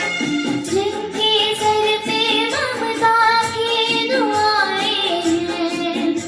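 A young girl singing a slow, held melody with bending, ornamented notes over instrumental backing with percussion.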